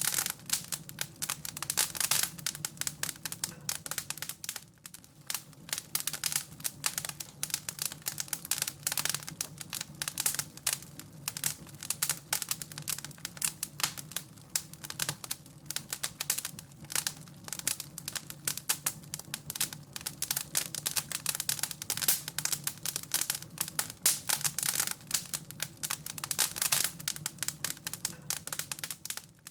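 Wood fire crackling: a dense, irregular run of sharp crackles and pops over a steady low hum.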